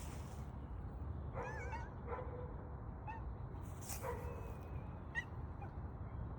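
A small pet animal making a series of short, high-pitched calls: one wavering cry, then several brief yips about a second apart.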